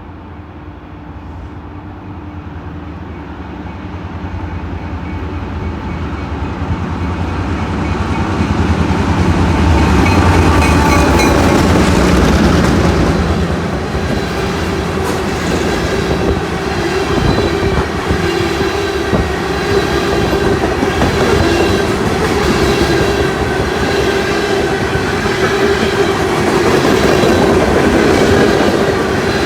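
Train approaching, growing steadily louder over about ten seconds, then passing close by with continuous wheel clatter and rumble on the rails.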